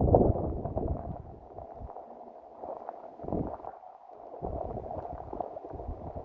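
Gusting wind buffeting the microphone, a low, uneven rumble that swells and drops from moment to moment.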